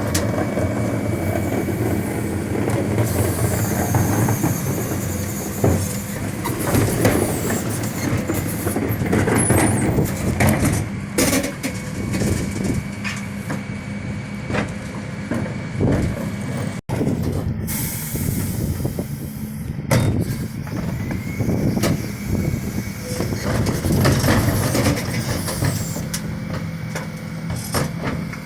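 Dennis Eagle Elite 6 refuse truck running steadily, with repeated sharp clanks and bangs from bin handling at the rear.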